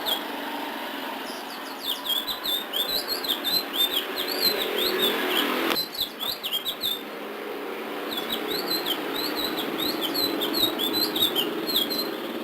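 A songbird sung by Indonesian bird-keepers under the name ledekan laut sings quick runs of short, high, rising and falling chirped notes in two long bursts. A steady low background hum runs beneath it.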